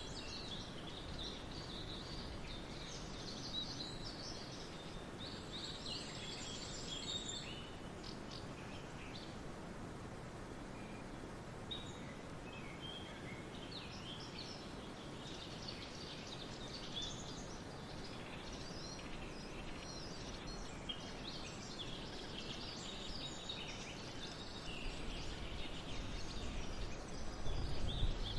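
Forest birds chirping and singing, many short calls and trills overlapping over a steady background hiss. A low rumble rises near the end.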